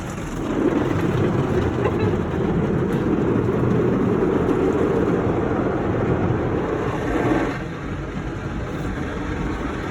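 Automatic car wash equipment working over the car, heard from inside the cabin: a loud, dense rushing noise that eases off about seven and a half seconds in.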